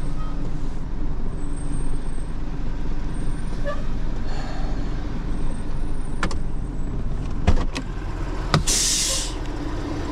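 Truck engine idling steadily, with a few sharp clicks or knocks about six to eight seconds in and a short hiss near the nine-second mark.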